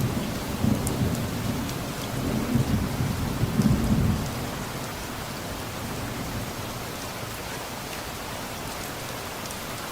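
Steady rain with a low rumble of distant thunder that dies away about four seconds in, leaving the even hiss of rain falling on surfaces.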